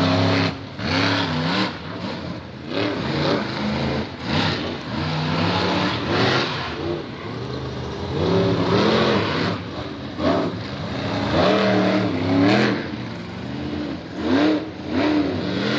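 Monster truck engines revving hard and backing off again and again as two trucks race side by side; the pitch climbs and drops every second or two.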